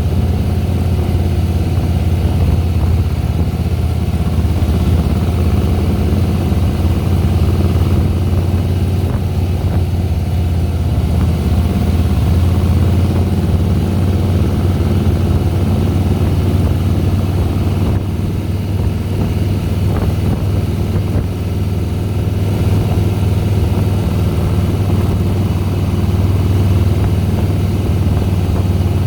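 Harley-Davidson Softail Deluxe's air-cooled V-twin engine running steadily while riding, with a strong low drone.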